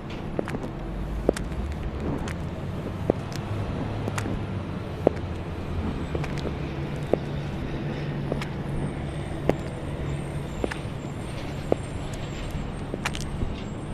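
High-heeled shoes clicking on pavement, a sharp heel strike about once a second, over the steady rumble of car traffic.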